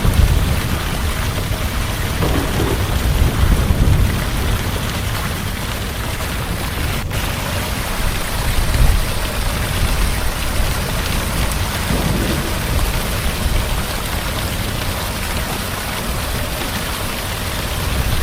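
Heavy rain pouring steadily, with a low thunder rumble underneath that swells during the first few seconds and again about halfway through.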